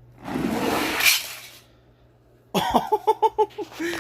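A loud rushing noise lasting about a second, then a man's voice in short, quick, repeated bursts from about two and a half seconds in.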